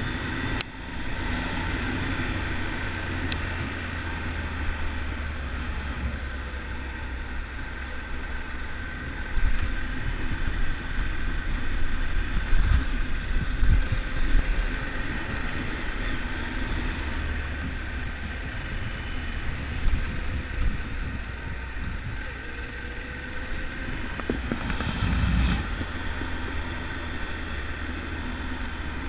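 Triumph Tiger 1200 motorcycle's three-cylinder engine running steadily under way, with wind and road rumble on the camera microphone.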